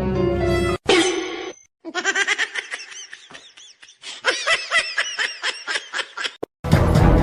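High-pitched giggling laughter in quick, repeated rising-and-falling peals that stop suddenly.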